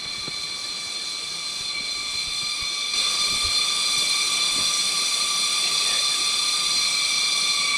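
Chorus of cicadas in tropical jungle: a loud, steady, shrill drone of several high pitches held together, growing louder and stepping up about three seconds in.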